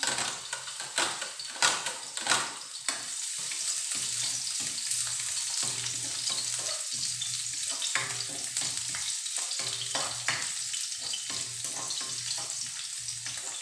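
Minced garlic sizzling in hot oil in a steel wok while a spatula stirs and scrapes it. Several sharp clicks of the spatula on the wok come in the first few seconds, then a steady sizzle with lighter scrapes.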